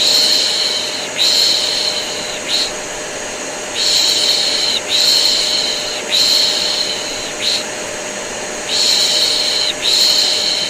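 A person's "shh" shushing, repeated in sets of three long shushes and one short one, over the steady drone of a running vacuum cleaner. It is used as continuous white noise to soothe a colicky baby to sleep.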